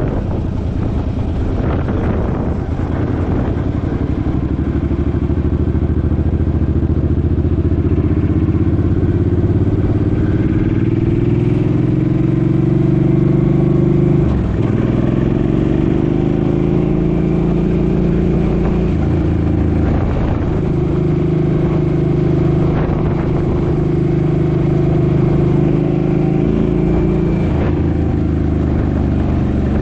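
Suzuki Boulevard M50's V-twin engine running under way, its pitch climbing slowly as it pulls through a gear, dropping sharply about halfway through at an upshift, then climbing again and settling to steady cruising.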